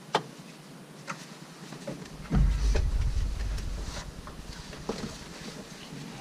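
Handling noise as a cut foam mattress pad is worked into place: a few light knocks and clicks, and a dull low thump about two seconds in that dies away over the next second.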